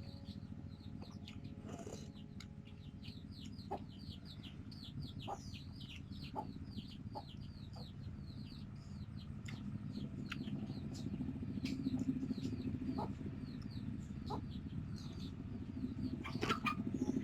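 Chicks peeping in quick, repeated falling chirps, with some clucking from chickens, over a low steady rumble that swells about ten seconds in and again near the end.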